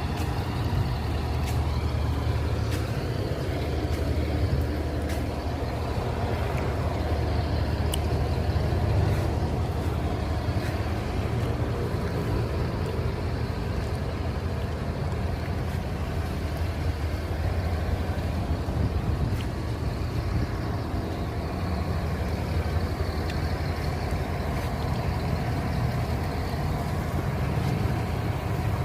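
Vehicle engine running steadily with a low, even hum, with a few faint irregular clicks over it.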